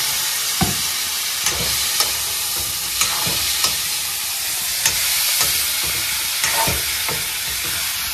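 Pork pieces sizzling as they fry in oil and turmeric masala in a metal kadai. A steel spoon stirs and scrapes against the pan, with irregular sharp clinks over the steady sizzle.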